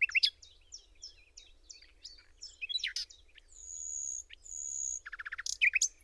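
Birds singing and calling in a mixed chorus of short chirps and whistled notes, with two long, high, steady notes midway and a fast run of repeated notes near the end.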